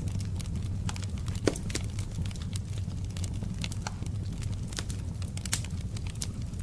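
Wood fire crackling in a fireplace: irregular sharp pops and snaps, with one louder pop about a second and a half in, over a steady low rumble.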